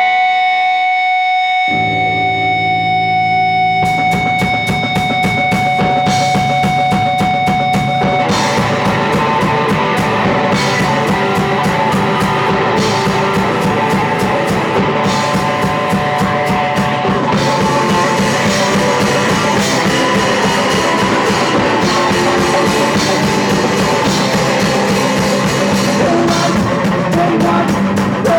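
Punk rock band playing live with distorted electric guitar and drum kit. A single held guitar note opens the song, low bass notes come in about two seconds in, a fast drum beat starts about four seconds in, and the full band is playing by about eight seconds.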